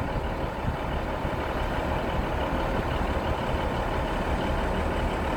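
A train standing at the platform with its engines idling, a steady low hum under a constant rumble.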